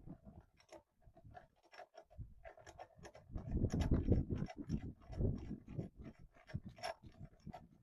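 Irregular clicking and scraping of hand tools and metal fittings being worked on a hydraulic return line, with a heavier low rumble of handling about midway.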